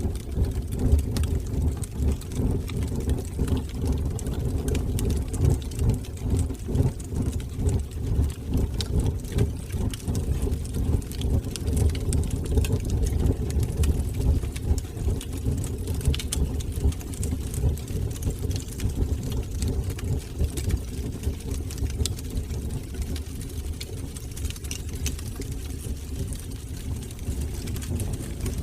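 Wood fire burning in a fireplace: a steady, fluttering low rumble of flames with many faint scattered crackles and pops.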